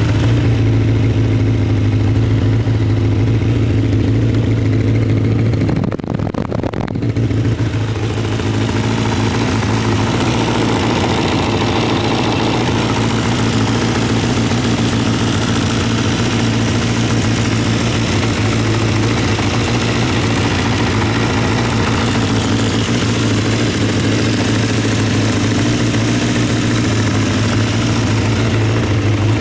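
Honda CBX550F2 Integra's air-cooled inline-four engine running steadily at idle, dipping briefly about six seconds in.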